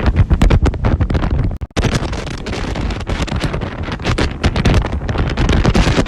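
Storm-force wind buffeting the microphone: a loud, gusting rush that cuts out abruptly for a moment just under two seconds in.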